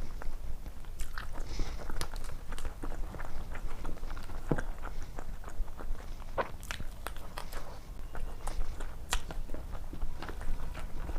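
A person eating close to the microphone: irregular crisp bites, crunches and wet mouth clicks of chewing food.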